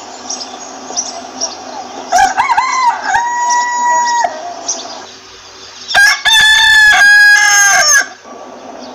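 Two roosters crowing, one after the other: a first crow about two seconds in, then a louder, fuller crow about six seconds in that lasts two seconds. Short, faint chicken calls go on underneath.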